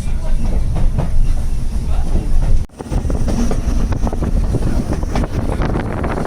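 Heritage railway train running, a steady low rumble with scattered wheel clicks over the rail joints. The sound cuts out for a moment a little under three seconds in.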